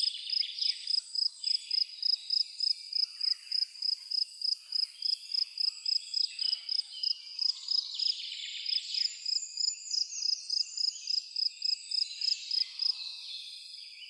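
A cricket chirping in a steady rhythm, about three to four high chirps a second, stopping near the end. Songbirds sing behind it throughout.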